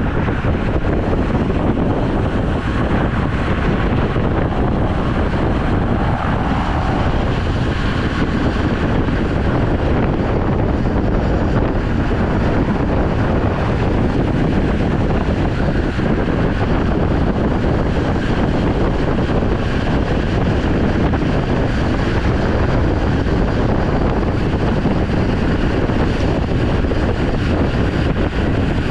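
Wind rushing over the microphone of a camera on a moving road bicycle, a loud, steady rush with no letup.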